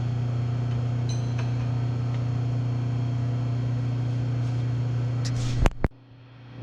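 Steady electric motor hum with a strong low tone. Two sharp clicks come about five and a half seconds in, and then the hum drops away for most of a second before it returns.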